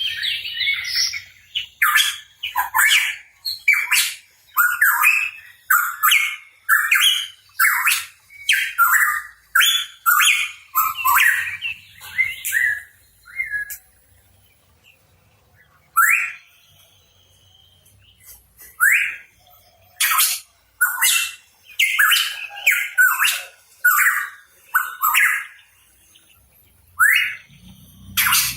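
Pitohui calling in a rapid series of short, loud, downward-sweeping notes, about two a second. The calls break off for about two seconds midway, then resume in a more broken run.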